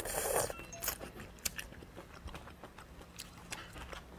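Close-miked chewing of a peeled sweet shrimp: a short breathy rush at the start, then a scatter of small wet mouth clicks and smacks.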